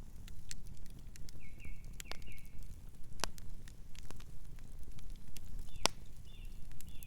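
Campfire crackling, with scattered sharp pops of burning wood over a steady low rumble; the sharpest pop comes about six seconds in. Short runs of soft high chirps from night birds come in twice.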